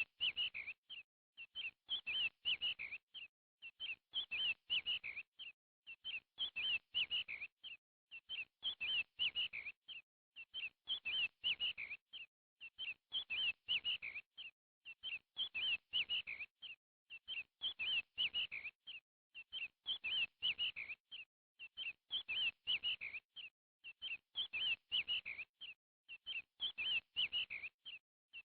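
Bird chirping: a burst of quick, high chirps repeating about every two seconds, with short pauses between bursts.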